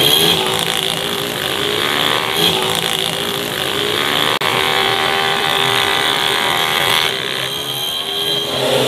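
Small race motorcycle engines revving and passing, their pitch rising and falling. The sound breaks off for an instant about four seconds in.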